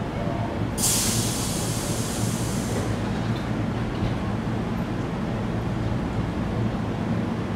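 Stationary Tobu 8000 series electric train humming steadily at the platform, with a loud hiss of compressed air starting about a second in and lasting about two seconds.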